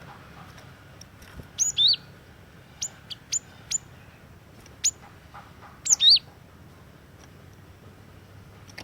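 Cinereous tit (gelatik batu) calling: about eight short, sharp, high notes that drop steeply in pitch, spaced irregularly, with two of them followed at once by a lower hooked note.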